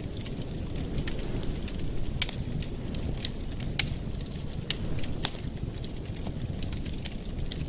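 Campfire burning: a steady low rumble of flames with irregular sharp crackles and pops from the wood, a few louder pops among them.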